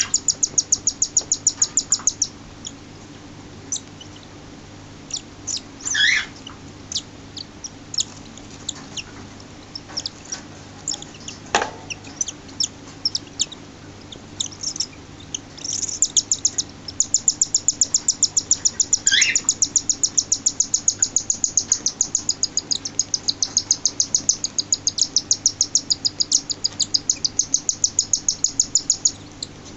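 Six-day-old cockatiel chick begging while being fed: long runs of rapid, high-pitched peeps, several a second. There are scattered single calls in between.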